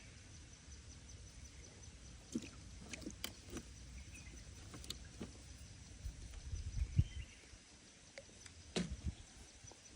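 Faint scattered clicks and taps from handling a freshly landed small fish and fishing tackle, over a low rumble.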